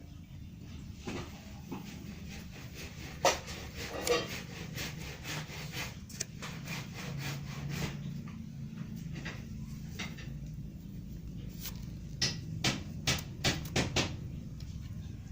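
Kitten chewing and crunching a dead mouse, with irregular wet rasping and sharp cracks of bone. One loud crack comes about three seconds in, and a quick run of about six cracks comes near the end.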